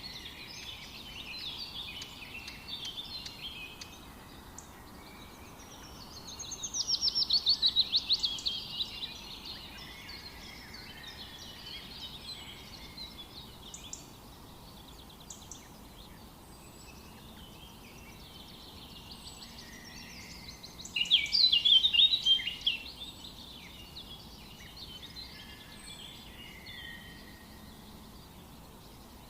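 Several songbirds chirping and singing over a faint steady hiss of forest ambience. Twice a louder song of rapidly repeated notes stands out, about a quarter of the way in and again about two thirds through.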